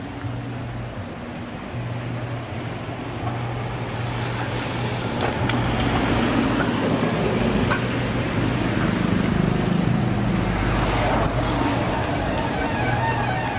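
Steady road and wind noise of a moving vehicle over a low hum, swelling about halfway through.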